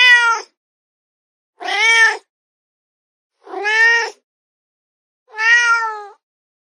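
Domestic cat meowing four times, each meow about half a second long, rising then falling in pitch, with gaps of about a second between them.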